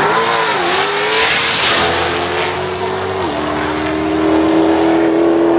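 Performance car engine revving hard at a drag strip. Its pitch dips and climbs, with a loud rushing noise strongest about a second and a half in, then it settles into a steady high drone.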